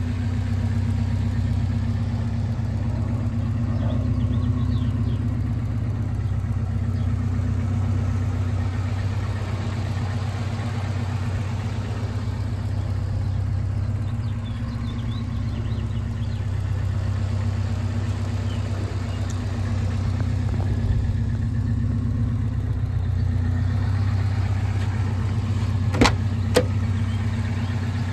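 Alfa Romeo Spider Graduate's twin-cam four-cylinder idling steadily through an exhaust with the rear muffler deleted (the "stinger"). Two sharp clicks, about half a second apart, near the end.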